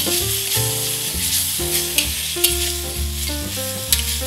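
Ginger-garlic vindaloo masala sizzling as it fries in a kadhai, freshly deglazed with water and being browned. A slotted metal spatula stirs it, with a few clicks and scrapes against the pan. Soft background music with sustained notes plays underneath.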